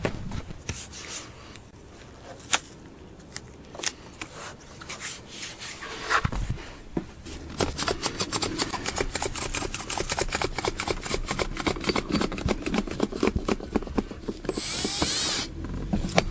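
Adhesive tape being handled and pulled off the roll: scattered clicks at first, then a long rasping pull made of rapid ticks, and a loud rip about a second long near the end.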